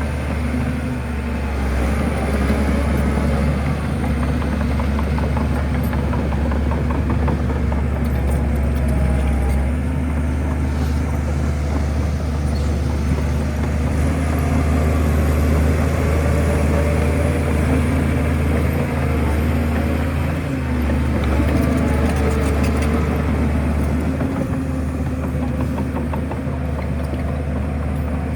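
Shantui bulldozer's diesel engine running steadily under work, with a low, even drone.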